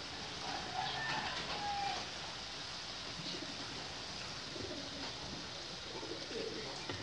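Birds calling over a steady hiss, with a few short pitched calls about a second in and lower ones near the end.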